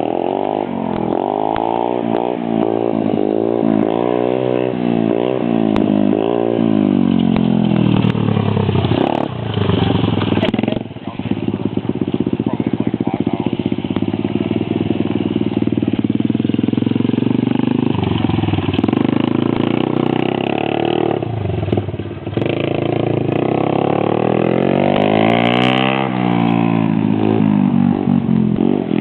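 Small motorcycle engine running under a rider, its pitch rising and falling over and over as the throttle opens and closes. The sound dips briefly twice.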